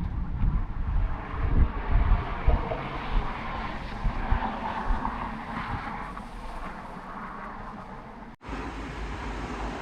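Thunderstorm ambience: a low, gusty rumble, strongest in the first few seconds and then fading, over a steady hiss. The sound cuts out for a moment near the end and resumes.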